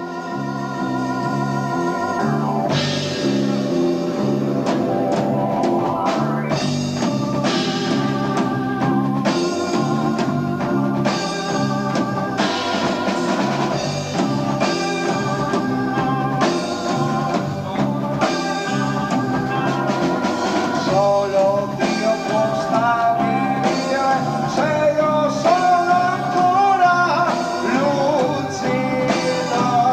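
Italian progressive rock band playing live, heard through an amateur tape recording: held keyboard chords open, drums and cymbals come in after about two and a half seconds, and a wavering melody line enters about twenty seconds in.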